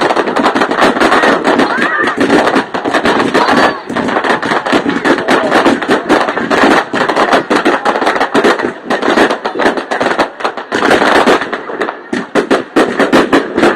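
Fireworks going off in a dense, rapid barrage of sharp cracks and bangs, thinning slightly near the end.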